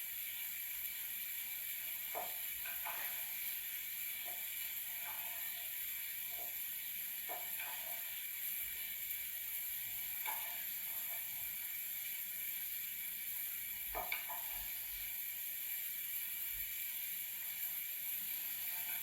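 Food frying in a pan, a steady sizzle, with scattered light clicks and knocks of kitchen utensils, the sharpest about two-thirds of the way through.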